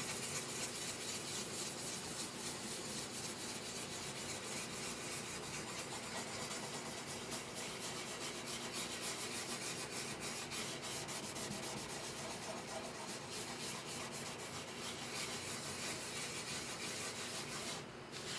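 Rapid hand-worked rubbing strokes of an abrasive on the guitar under repair, stopping briefly near the end.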